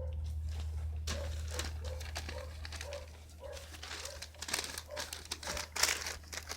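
Wood fire crackling and popping in irregular sharp snaps, sparse at first and growing denser and louder in the second half, over a steady low hum.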